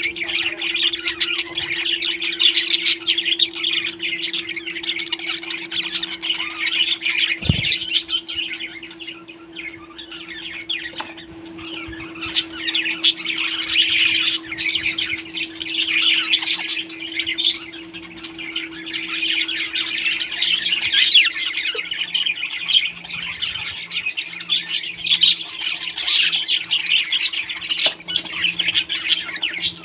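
Pet parrots chirping and chattering continuously in a dense, high twitter, with a steady low hum beneath and a single knock about seven seconds in.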